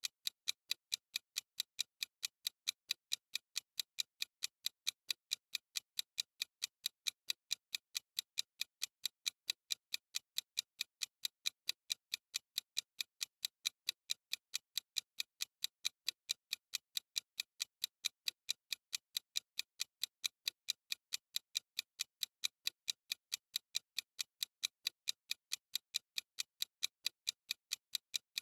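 Clock-ticking sound effect of a countdown timer: short, sharp, high ticks at a fast, perfectly even pace, several a second, with no change.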